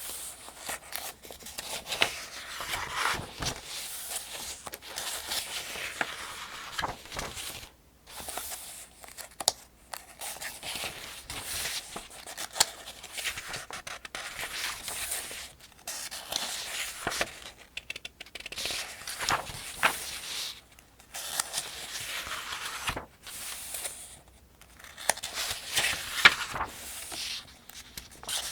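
Paper pages of a Farmers' Almanac being turned one after another at an even pace: rustling and flapping paper with crisp clicks, a short pause between turns every two to four seconds.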